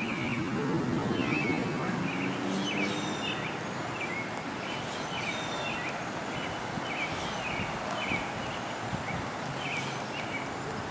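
Outdoor ambience of a backyard lawn: a bird gives short chirps again and again, every second or so, over a steady background hiss.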